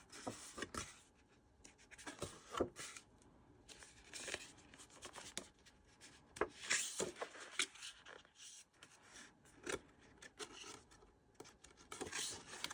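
Thick cardstock journaling cards being handled and shuffled one by one, with soft rubbing and light taps of the cards against each other at irregular intervals.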